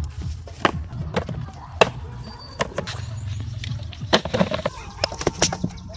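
A series of irregular sharp knocks and clicks, several strong ones spread through, over a low steady hum.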